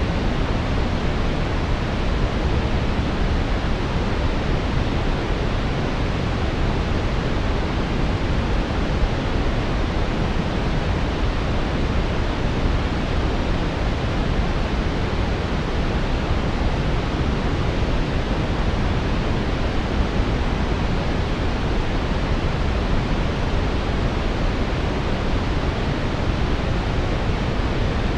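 Steady synthetic brown noise: an even, deep rushing hiss weighted toward the low end, unchanging throughout.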